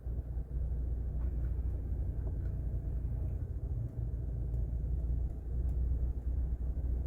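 Low, steady rumble of a Toyota Harrier (80 series) running, heard from inside the cabin, with a few faint ticks between one and two and a half seconds in.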